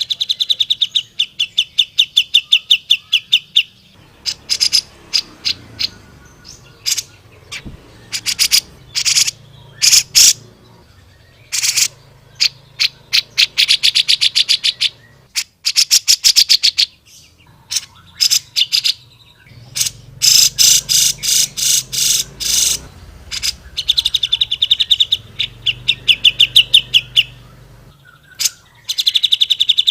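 Cucak jenggot (grey-cheeked bulbul) singing loudly and continuously: fast runs of sharp repeated notes and rapid buzzy trills, broken by short pauses.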